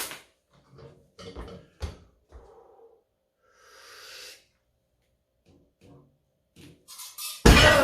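Weight plates loaded on a rolling thick-bar grip handle clunking and knocking as the weight is lifted, then one loud clank about seven and a half seconds in as the weight is set back down.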